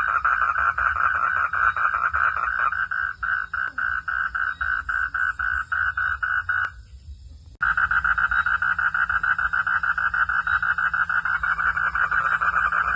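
A chorus of frogs trilling at night: a dense, rapid pulsing that grows more clearly spaced after a couple of seconds. About seven seconds in it breaks off almost completely, then returns abruptly under a second later.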